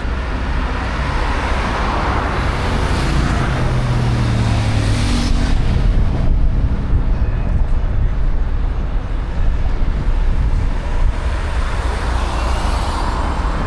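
Steady road traffic noise as vehicles pass, with one vehicle's engine hum standing out a few seconds in.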